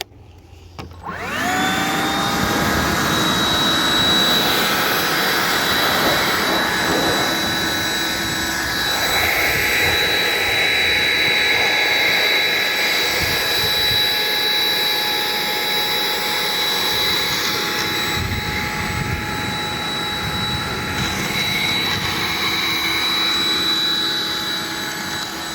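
Handheld leaf blower spinning up about a second in, then running steadily with a high whine over a rush of air as it blows snow off a car.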